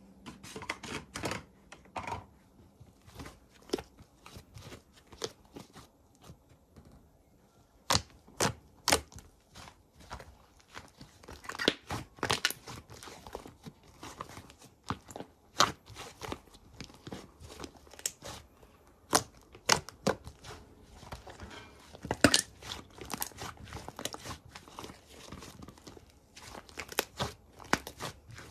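Slime being handled and squished by hand, making irregular sticky crackles, clicks and pops.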